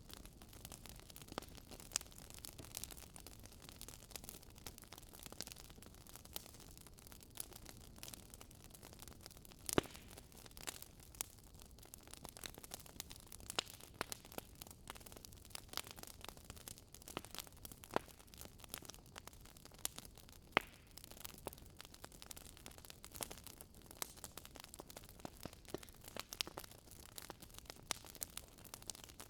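Wood fire burning in a fireplace, crackling: a faint steady hiss with many irregular sharp pops and snaps from the burning logs, a few louder pops standing out.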